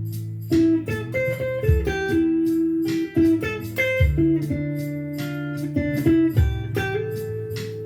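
Blues played on electric guitar: single-note lead lines over a low bass line and steady beat.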